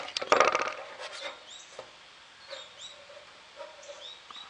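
Animal calls: a loud burst of rapid calls about half a second in, then a few short whine-like calls and faint high chirps.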